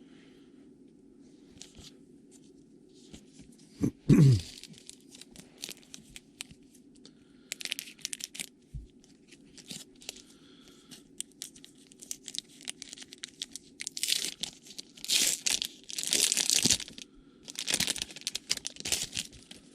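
A trading-card pack wrapper being torn open and crinkled by hand: a run of short tearing and crinkling noises that grow louder and denser over the last six seconds, with one louder scrape about four seconds in, over a faint steady hum.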